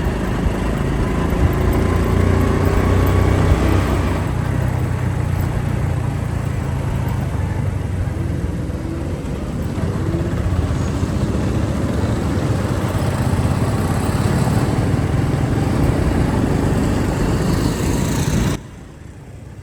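Motorcycle engine running while riding, a steady low rumble with wind noise on the microphone, which drops away suddenly near the end.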